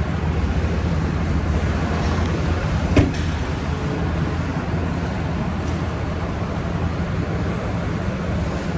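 A vehicle engine running steadily at idle, a low even rumble, with one sharp knock about three seconds in.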